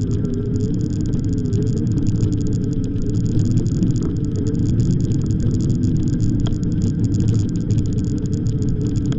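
Steady wind rumble on the microphone of a moving e-bike, with a low hum that wavers slightly in pitch underneath.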